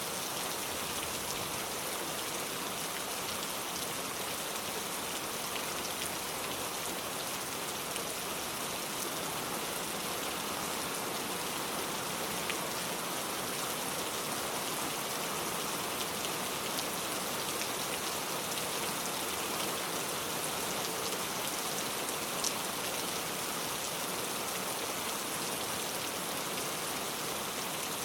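Steady rain falling on a car, an even patter of drops on the body and glass, with an occasional louder single drop.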